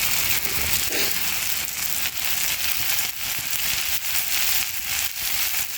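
Big steak frying in an overcrowded pan over a campfire: a steady sizzling hiss with many small crackles and pops. The sizzle is weaker than ideal because the pan is overcrowded.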